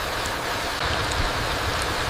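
Steady rain falling on a forest floor: an even hiss with a low rumble underneath and a few faint drop ticks.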